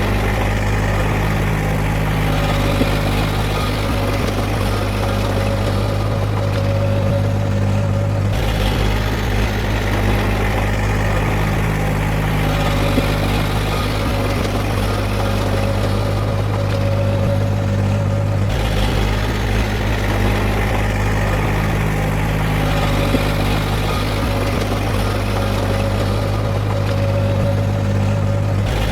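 Heavy earthmoving machinery's diesel engine running steadily at a constant pitch. The sound shifts abruptly in tone twice, about 8 and 18 seconds in.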